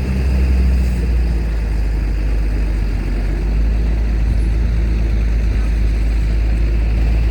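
Steady low rumble of heavy diesel engines running.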